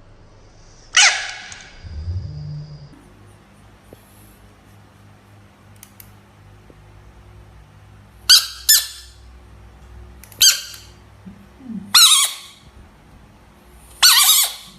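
Short, loud squealing animal calls: one about a second in, then five more from about eight seconds on, the first two close together. A brief low call comes about two seconds in.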